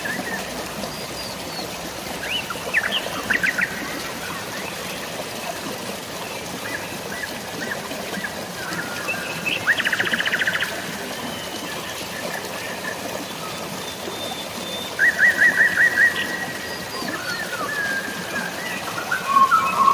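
Several birds chirping and singing over a steady hiss of drizzling rain and running water. There is a fast trill about halfway through and a quick run of repeated notes past the three-quarter mark.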